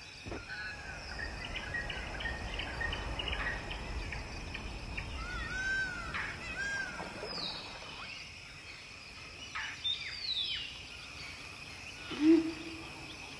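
Forest ambience: many birds calling with short arched notes and falling whistles over a steady high insect drone. Near the end comes one short low call, the loudest sound.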